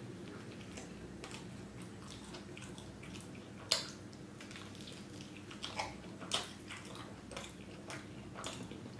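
A person biting and chewing a soft tortilla wrap: wet mouth and chewing sounds with sharp smacks, the loudest a little under four seconds in and several more in the second half, over a steady low hum.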